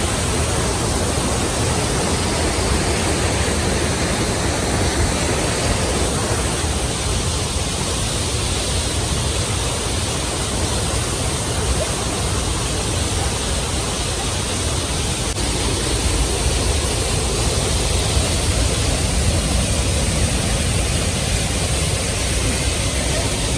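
Waterfall rushing in a steady, loud roar of water.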